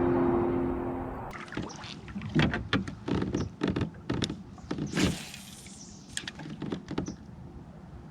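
Background music fading out, then a run of irregular knocks and clicks from gear handled on a fishing kayak, with a brief swish about five seconds in.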